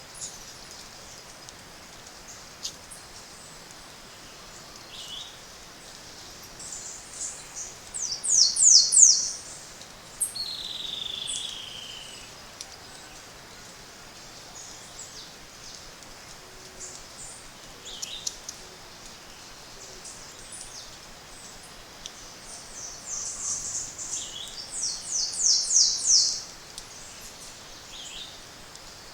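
Tropical forest birds singing. Twice a bird gives a high song of quick downward-sweeping notes that speeds up and grows louder, the first followed by a drawn-out falling note, with scattered short high calls between over a faint steady hiss.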